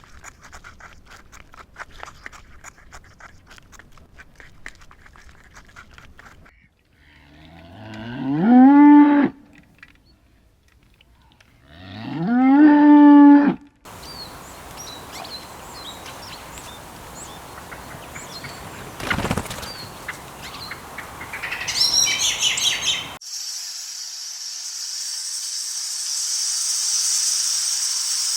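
A cow mooing twice, each moo rising in pitch and then held, the second about three seconds after the first. Before the moos there is a crackling, clicking noise; after them comes a steady rushing noise that gives way to a high, steady hiss.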